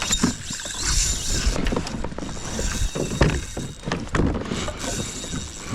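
Spinning reel ticking and whirring as a hooked fish pulls on the line, with knocks from handling on the kayak and wind on the microphone.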